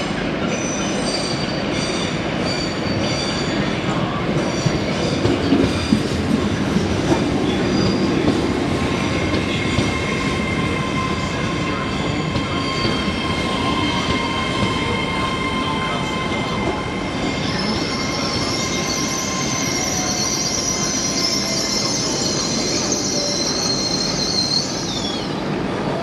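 Train wheels squealing on the rails in several shrill, steady tones. A few clacks sound about a fifth of the way in. A louder, higher squeal sets in past halfway and cuts off suddenly near the end.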